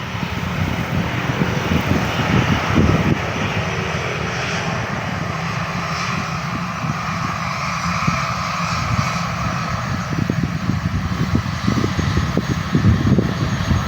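Jet engines of an Airbus A320-214 airliner running, a steady rush with a fan whine that comes up in the middle.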